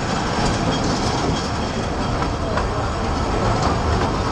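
Passenger carriage of a 2 ft gauge railway running along the track: a steady rumble of wheels on rail, with a few irregular clicks.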